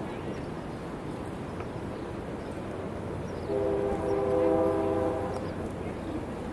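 A horn sounds one steady chord for about two seconds, starting about halfway in, over a steady outdoor background hiss.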